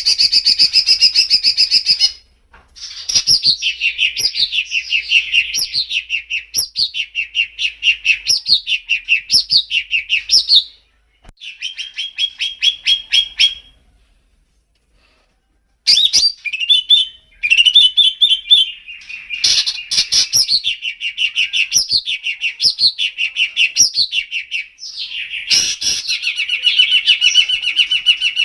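A songbird singing long, rapid runs of repeated chirps and falling sweeping notes, in loud phrases broken by short pauses, with a silence of about two seconds around the middle.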